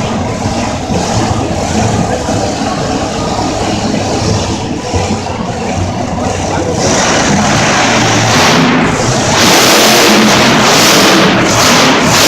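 Monster truck engine running loud under throttle during a wheelie run, growing louder and harsher about seven seconds in.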